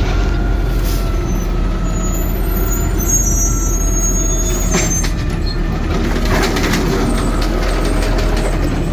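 CNG side-loader garbage truck running, with a steady hydraulic whine as its automated arm grabs, lifts and tips a trash cart. A sharp knock comes about five seconds in, followed by some clatter.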